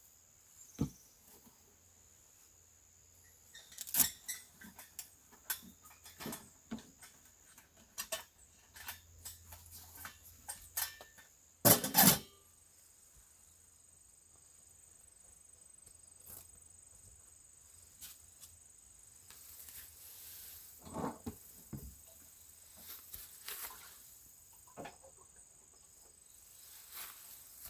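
Scattered small clicks, taps and rustles of objects being handled, with a loud double knock about twelve seconds in.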